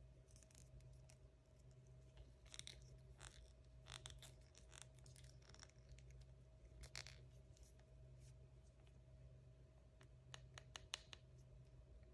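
Faint, scattered crinkles and clicks of toy packaging being handled and opened, with a quick cluster near the end, over a steady low hum.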